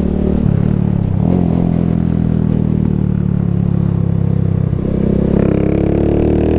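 125cc motorcycle engine under way. Its note changes twice in the first second or so, holds steady, then climbs steadily as the bike accelerates from about five seconds in.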